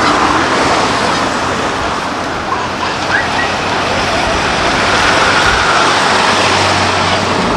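Car traffic noise: vehicles running with a steady rushing sound and a low hum.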